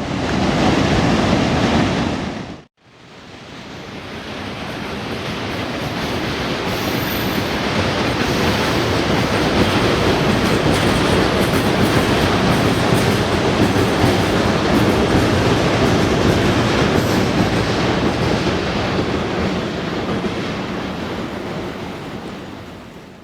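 A train passing by: the rumble and clatter of its wheels on the rails builds over about ten seconds, stays loud in the middle and fades away. Before it, a short loud stretch of the same kind breaks off sharply about two and a half seconds in.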